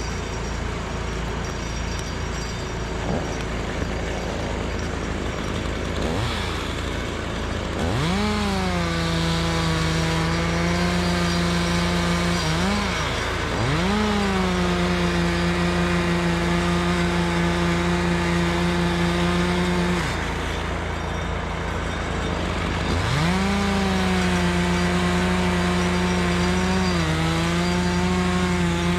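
Two-stroke chainsaw opened up to full throttle three times, each run lasting several seconds. The pitch shoots up, then sags a little and holds as the chain bites into the wood. A steady low engine hum runs underneath.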